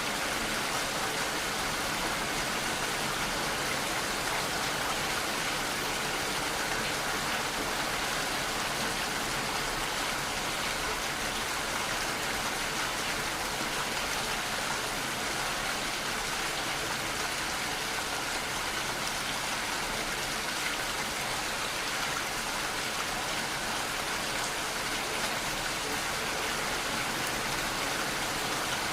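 Steady rainfall, an even hiss of many raindrops with no single drop or gust standing out.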